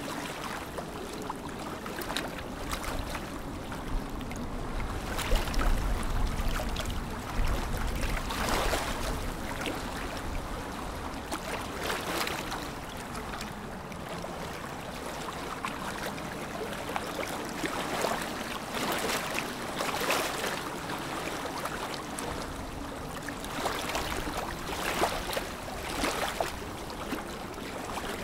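Lake water lapping against a shore or hull, with irregular small splashes every second or two over a steady wash of water.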